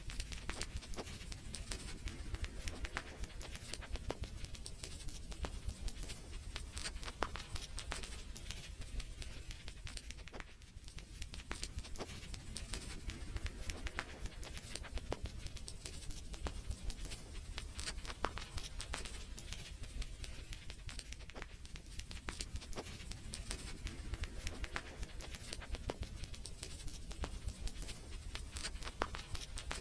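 Wood fire in a fireplace crackling, with irregular sharp pops and snaps over a low rumble of burning.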